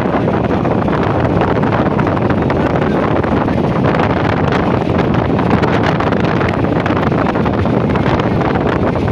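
Moving train with wind buffeting the microphone: a loud, unbroken rush of noise.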